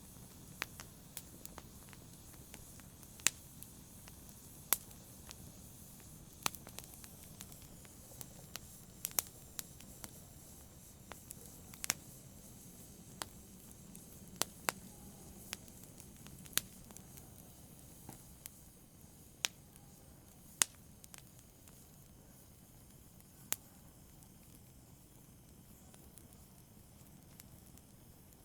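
Wood fire crackling in a fireplace: irregular sharp pops, about one a second, over a soft steady hiss, the pops thinning out near the end.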